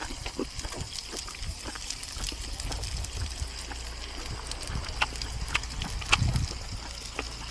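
A person chewing food up close, with wet mouth sounds and scattered small clicks, over a low steady hum.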